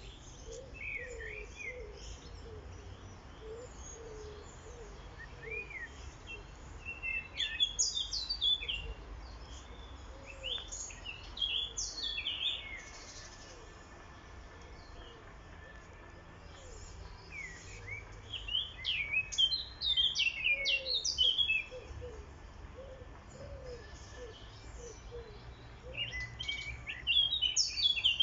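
Songbirds singing in several loud bursts of quick, high chirps and trills. Between the bursts a lower, short call repeats steadily.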